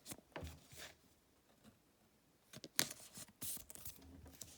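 Faint handling noise of trading cards and plastic card sleeves: a few short rustles and clicks, then a quiet stretch, then a quick cluster of sharp crinkles and slaps past the middle.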